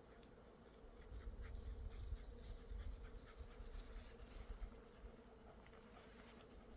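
Bees humming steadily among blossoms. From about a second in until near the end, soft crunching footsteps on a forest path can be heard.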